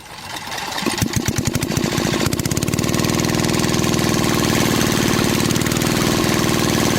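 Small engine starting: a run of firing pulses that quickens and grows louder over the first couple of seconds, then settles into a steady run.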